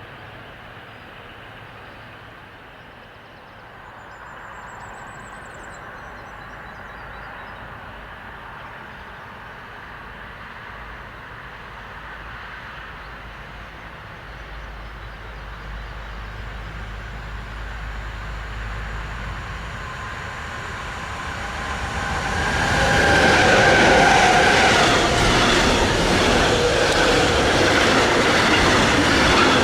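An electric-locomotive-hauled train approaches, growing steadily louder, then passes close by about three-quarters of the way in with loud rumbling wheel-on-rail noise.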